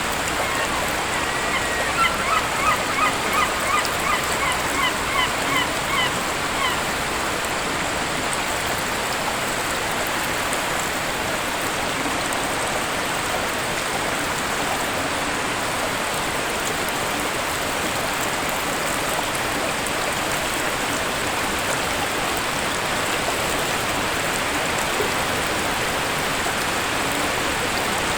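Waterfall rushing steadily, with a bird giving a quick series of about a dozen short calls, a little over two a second, near the start.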